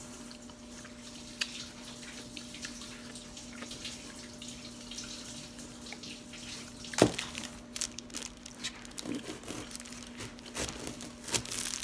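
Close-up wet chewing and mouth clicks of someone eating a candy apple, over a steady low hum, with one sharper knock about seven seconds in.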